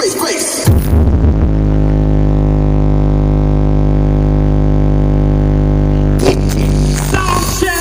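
Sriwijaya sound horeg system at a sound check, playing a long, loud, buzzy low tone with heavy bass, held steady for several seconds after a few sliding notes. Near the end it breaks into music with a beat.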